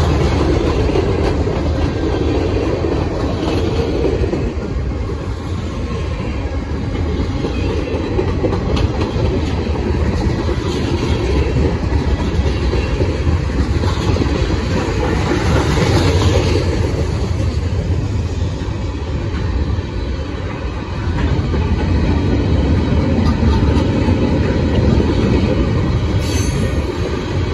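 Freight cars of a passing Norfolk Southern mixed freight train rolling by close at hand: a loud, steady rumble of steel wheels on the rails with clicking over the rail joints.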